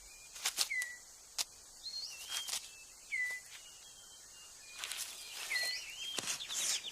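Sharp snaps and rustles of leaf litter as a male six-plumed bird of paradise clears his display court on the forest floor. A bird gives repeated short whistled notes throughout, some dropping and some rising in pitch.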